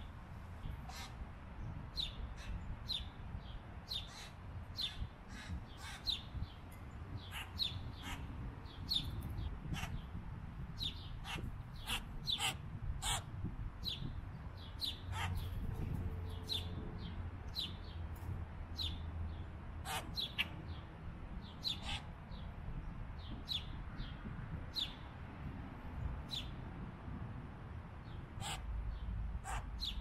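Birds giving short, sharp chirps over and over, about two a second, over a low steady rumble.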